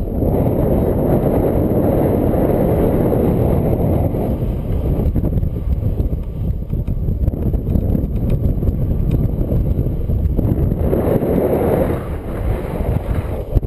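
Strong gusty wind buffeting the microphone, a loud low rumble that swells and eases, strongest in the first few seconds and again about eleven seconds in.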